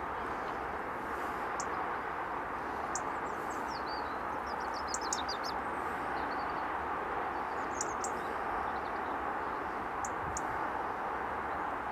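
Steady distant road traffic noise, with short high bird chirps scattered over it and a quick run of them about five seconds in.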